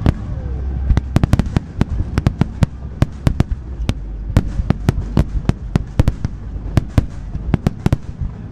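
Fireworks display: a rapid, irregular run of sharp bangs and cracks from bursting fireworks, several a second, over a steady low rumble.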